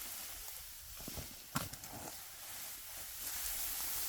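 Steady outdoor hiss with a few short knocks, one sharper than the rest about a second and a half in.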